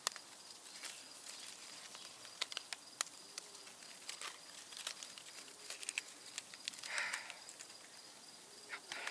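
Quiet outdoor woodland ambience with scattered sharp clicks and rustles, and a short breathy puff about seven seconds in.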